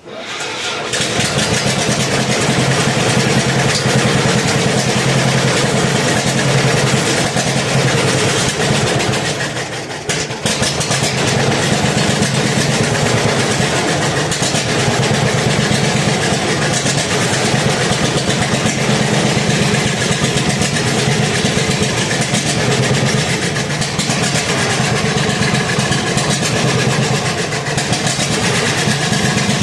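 Old engine with a newly fitted carburetor catching right at the start and then running steadily, with a brief dip about ten seconds in before it picks back up. It is running only on choke, which the owner takes as a sign the carburetor needs rebuilding.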